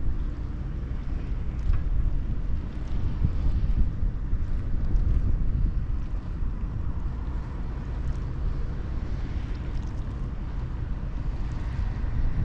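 Wind buffeting the microphone outdoors, a steady, uneven low rumble with a fainter hiss above it.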